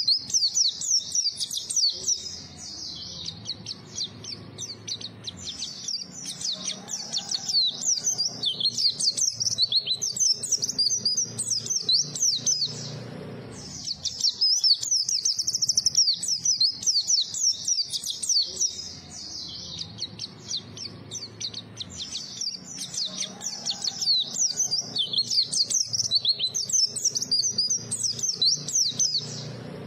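White-eye (pleci) singing a fast, continuous high-pitched twittering song of rapid chirps, with a brief pause about 13 seconds in.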